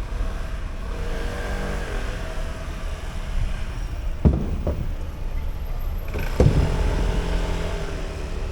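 City street traffic: a steady low rumble of cars passing, with a few sharp knocks about four seconds in and again about six seconds in.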